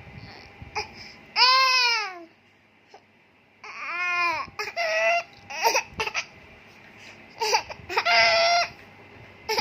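A series of high, squeaky crowing calls imitating a rooster's crow. The longest is at about a second and a half in, followed by shorter broken ones between about four and eight and a half seconds.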